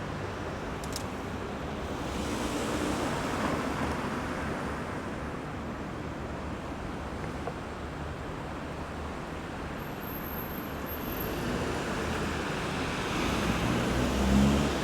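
Road traffic going round a roundabout: a steady wash of tyre and engine noise from passing cars, swelling as vehicles go by. Near the end a louder vehicle passes with a deeper engine hum.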